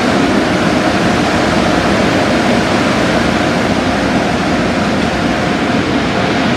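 Automatic car wash running: a steady, loud rush of spraying water and machinery, with a faint steady hum underneath.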